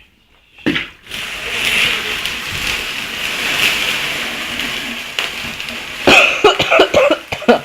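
A steady rushing hiss of water, about four seconds long, as water is splashed or poured onto an indoor bonfire. Near the end comes a spell of coughing from the smoke.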